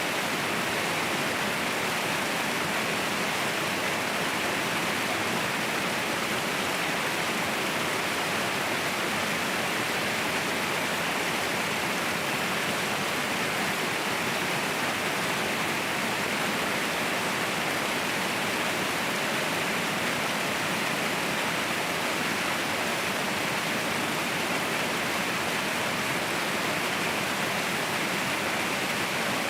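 Waterfall roaring: a steady, even rush of falling water with no breaks or changes.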